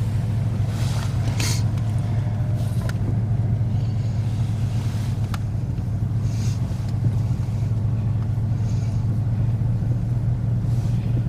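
Steady low rumble of a truck driving slowly, heard from inside the cab, with a few faint brief rustles.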